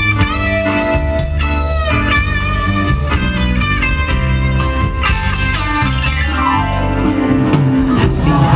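Live band playing an instrumental break: a guitar lead with bent notes and a falling run near the end, over bass and drums.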